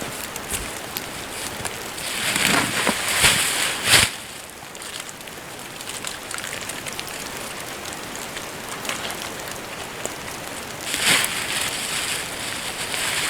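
Sleet and rain pattering steadily, with two louder spells of rustling, about two to four seconds in and again about eleven seconds in. A sharp knock about four seconds in is the loudest sound.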